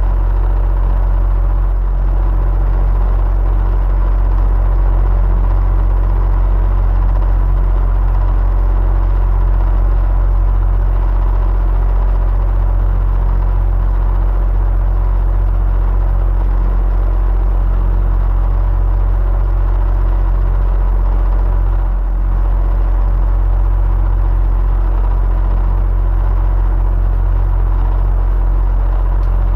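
Electric fan running steadily: a deep, even hum with faint steady whining tones above it, dipping slightly for a moment about three-quarters of the way through.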